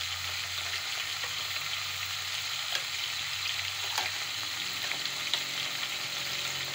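Sliced potatoes frying in hot oil in an aluminium pot: a steady sizzle, with a few faint clicks.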